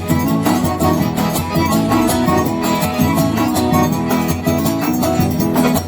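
Instrumental forró music: a melody line over plucked strings and a steady percussion beat.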